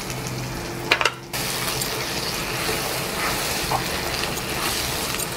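Diced potatoes and a freshly added cashew-coconut paste sizzling in oil in a non-stick kadai while being stirred with a wooden spatula. A sharp knock sounds about a second in, and just after it the sizzling is suddenly louder and stays steady.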